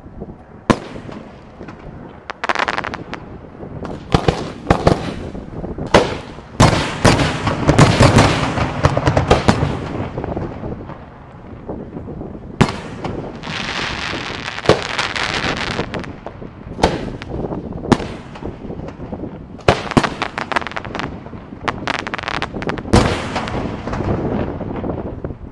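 Aerial fireworks display: many sharp bangs of shells bursting overhead, thickest in a rapid volley from about six to ten seconds in. A couple of seconds of continuous hissing noise come in the middle.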